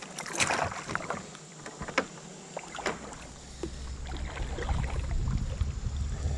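Knocks and water splashes around a fishing kayak, several sharp clicks in the first second, then single knocks; a low rumble of wind on the microphone builds from about halfway.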